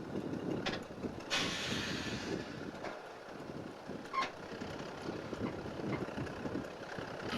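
Heavy rail-yard engine running with a steady low rumble, with a sharp hiss of released air a little over a second in that lasts about a second, and a few short knocks.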